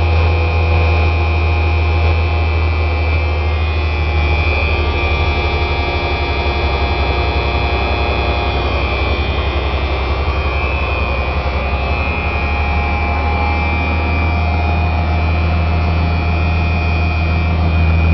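The Cummins NHC-250 six-cylinder diesel of a stock M818 5-ton military tractor truck, running steadily with a deep low rumble and a steady high whine over it.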